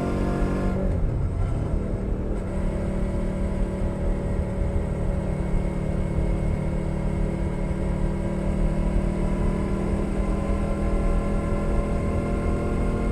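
2021 Suzuki SV 650's V-twin engine through a LeoVince Nero exhaust, on the move. About a second in, the throttle eases and the engine note drops, then it runs at a steady pitch.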